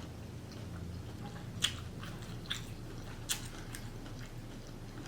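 Close-miked chewing of seafood-boil shrimp in sauce, with three short wet smacks or clicks of the mouth over a low steady hum.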